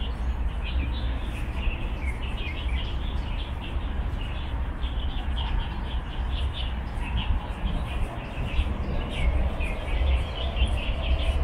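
Small birds chirping in many quick, short calls over a steady low rumble.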